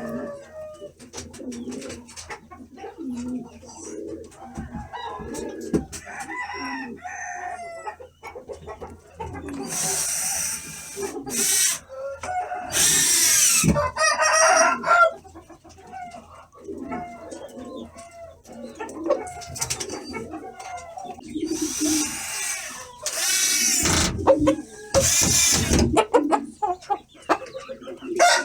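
Rooster calling and clucking, with about four loud crows spread through the stretch.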